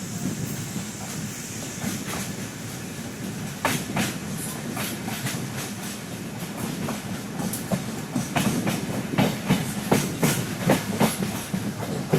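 Passenger express train running, wheels clattering over the rail joints over a steady low rumble; the clicks come thicker and louder in the second half.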